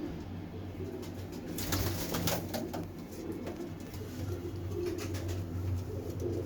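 Pigeons cooing steadily, with a short burst of rustling and clicking about two seconds in.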